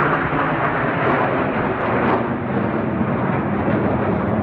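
Aircraft engine noise from a plane flying at an airshow, loud and steady without breaks.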